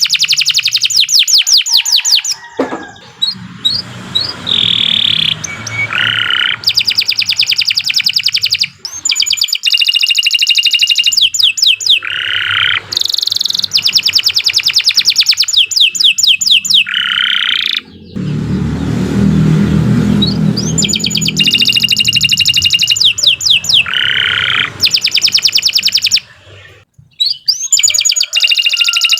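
Domestic canary in full song: a long run of rapid trills and rolls, phrase after phrase, with brief pauses between them. A low rumble sits under the song partway through.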